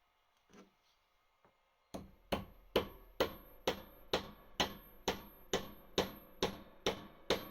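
Hammer tapping a part into place: evenly spaced sharp strikes, a little over two a second, each ringing briefly, starting about two seconds in.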